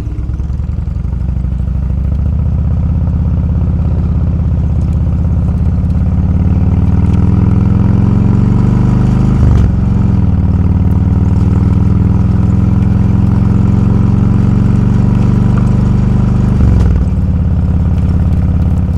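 Motorcycle engine heard from the rider's own bike, pulling up through the gears: the pitch climbs steadily, dips briefly at an upshift about halfway through, climbs again, and dips at another shift near the end.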